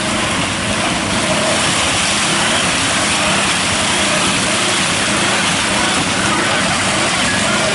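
ATV engine running steadily under a dense rushing noise, without any clear rise or drop in revs.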